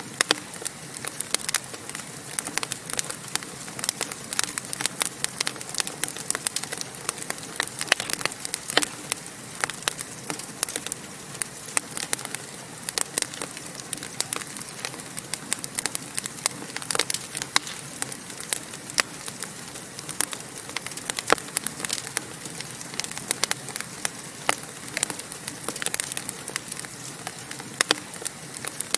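Fireplace fire crackling: many irregular sharp pops and snaps over a steady hiss.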